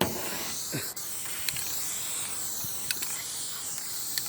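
Aerosol spray-paint can hissing steadily as a coat is sprayed on, with a couple of faint ticks.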